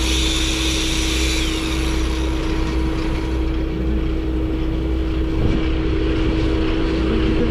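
A vehicle running steadily: a continuous engine and road drone with a constant hum, and a brief hiss in the first second and a half.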